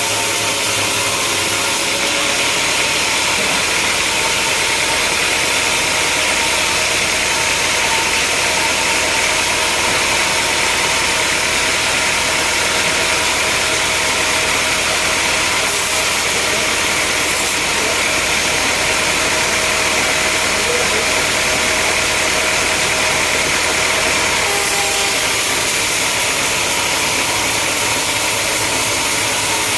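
Sawmill machinery running with a steady, loud engine-like drone, its tone shifting slightly a couple of seconds in and again near the end.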